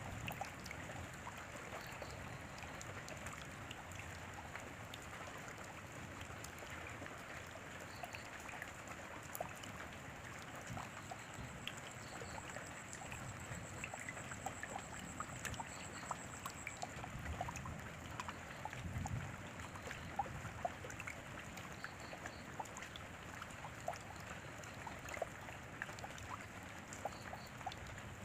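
Steady rain falling, with many separate drops ticking and dripping on a surface; a brief low rumble comes a little past halfway.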